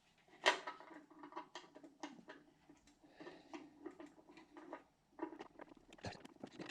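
Small metal parts being handled and fitted by hand: a run of irregular light clicks, taps and rattles, the sharpest about half a second in.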